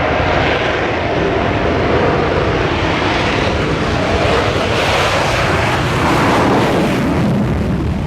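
Aircraft engine noise from an aircraft flying over: a loud, steady roar that holds throughout.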